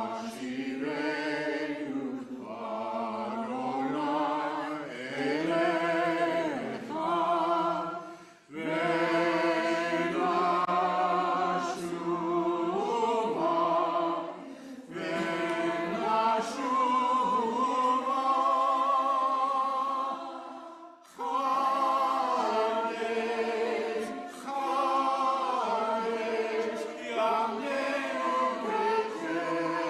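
Sung vocal music: long held phrases with vibrato. The singing breaks off briefly about eight seconds in and again about twenty-one seconds in.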